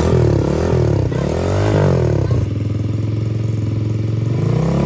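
Trailmaster TM15 110cc four-stroke dirt bike engine being revved in a few rising and falling blips, then running steadily at idle for about two seconds before revving up again near the end.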